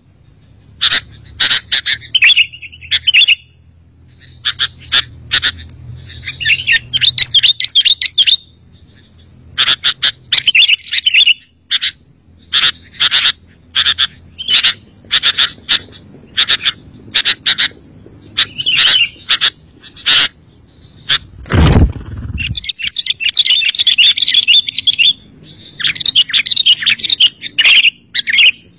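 Sooty-headed bulbul (kutilang) calling: quick sharp chirps and busy chattering runs, coming in bursts with short pauses. A single low thump sounds about three-quarters of the way through.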